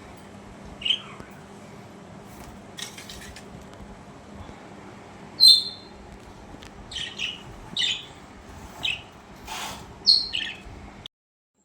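Budgerigars chirping in short, scattered calls, the loudest about five and a half seconds in, over a faint steady low hum. The sound cuts off abruptly near the end.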